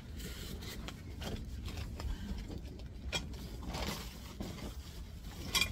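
Rummaging through camping gear, with scattered scraping and rustling, and metal tent poles clinking together near the end.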